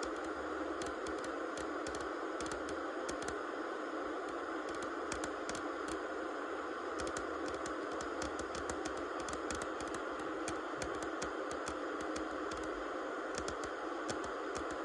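Steady white-noise hiss, mostly mid-pitched, with frequent irregular small clicks and crackles over it.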